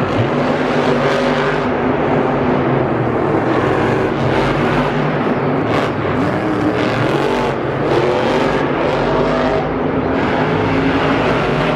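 Monster truck engines running loud and steady, revving up and down in the stadium arena.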